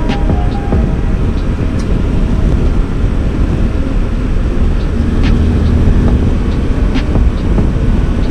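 Steady riding noise from a 2024 Suzuki V-Strom 800DE under way: wind and road rush over the parallel-twin engine, heard through a helmet microphone.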